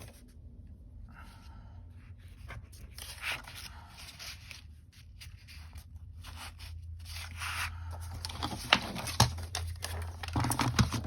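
Paper being handled, with irregular rustling and crinkling, and a couple of sharp clicks near the end.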